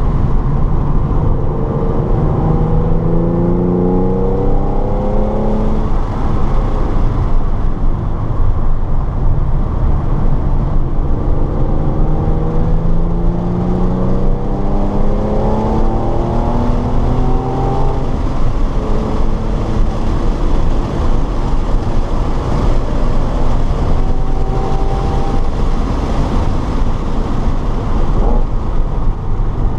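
Car engine heard from inside the cabin under hard acceleration on a racetrack, its pitch climbing twice through the revs. Loud wind and road noise run underneath.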